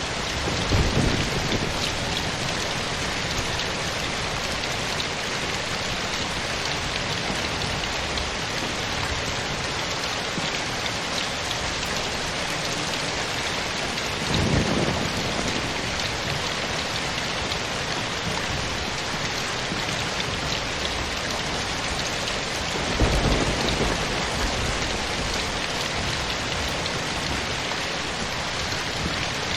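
Steady rain falling, with three short, low rumbles of distant thunder: one about a second in, one about halfway through and one about two-thirds of the way through.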